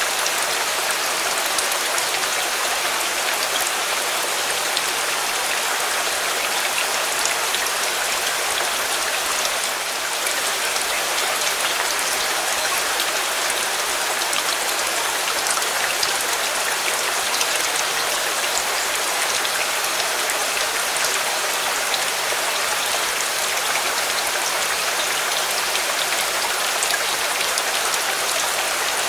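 Steady heavy rain, a dense even hiss with fine drop ticks scattered through it.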